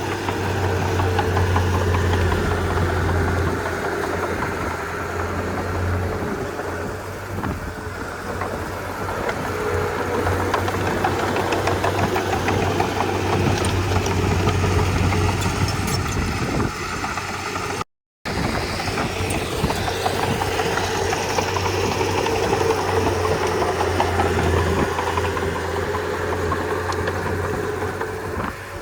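Komatsu D31P bulldozer's diesel engine running steadily with a low hum that rises and falls, and a continuous rattle. The sound cuts out for a split second just past halfway.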